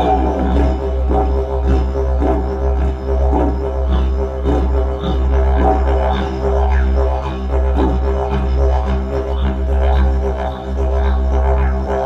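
Didgeridoo playing one continuous low drone, its overtones shifting in repeated wah-like sweeps about once a second.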